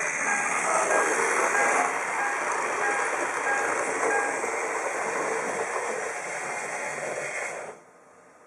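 H0-scale model train running on the layout track, a steady rumbling rattle, with a short electronic beep repeating about twice a second for the first half. The sound cuts off suddenly near the end.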